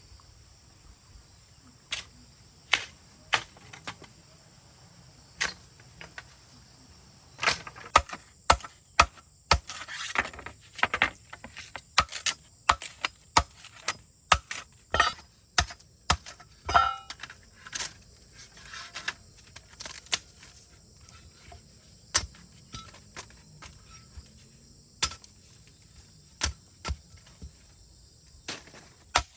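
Irregular series of sharp clicks and knocks, some in quick clusters and busiest through the middle, over a steady faint high-pitched drone.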